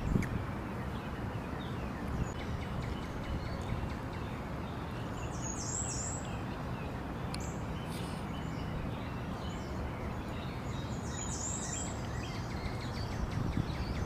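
Outdoor ambience: a steady rushing background with small birds chirping now and then, clearest in two short runs of high chirps about five seconds in and again near eleven seconds.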